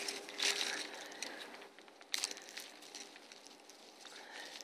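Faint scattered crunching and crackling of footsteps on frozen ground, with the strongest crunches about half a second in and again just after two seconds.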